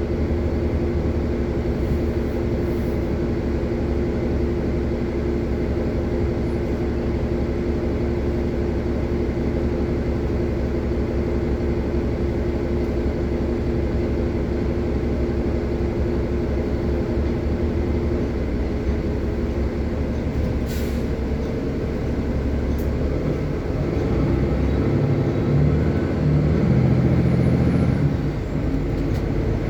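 City bus heard from inside while riding: steady engine drone and road noise. A sharp click comes about two-thirds of the way through, and near the end the engine gets louder for a few seconds with its pitch stepping up, as when the bus pulls away.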